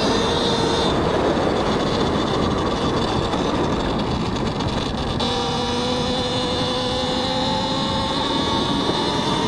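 Talaria X3 electric dirt bike's motor whining under way, mixed with wind and tyre noise on a helmet mic. About halfway the whine drops in pitch, then climbs slowly again as the bike picks up speed.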